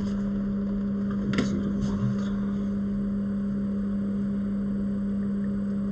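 A steady low electrical hum with a couple of brief soft clicks about a second and a half in.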